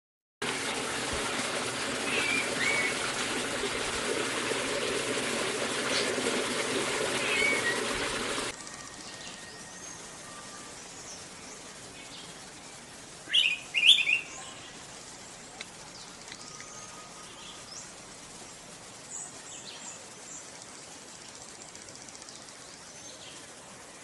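Bird calls from a forest: scattered faint chirps, and a short burst of two or three sharp, loud calls about halfway through, from the Araripe manakin perched in view. For the first third a loud steady rushing noise covers the calls, then cuts off suddenly.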